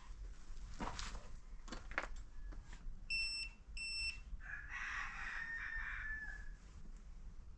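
A rooster crowing once, a rough call about two seconds long with a slightly falling tone. Before it come a few light knocks and two short electronic beeps.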